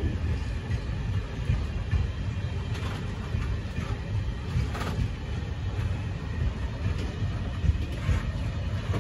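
Freight train of open-top wagons rolling past at speed: a steady rumble of steel wheels on the rails, with a few faint clanks.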